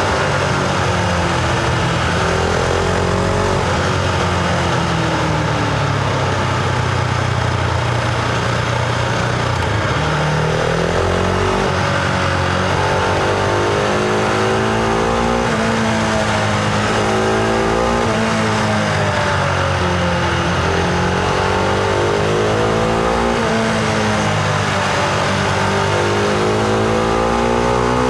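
Husqvarna Vitpilen 701's single-cylinder engine heard from onboard while riding, accelerating repeatedly with its pitch rising and then dropping at each gear change or roll-off.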